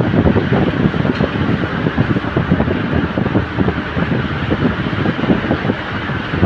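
Wind buffeting the microphone in uneven gusts over the steady rumble and hiss of a moving road vehicle.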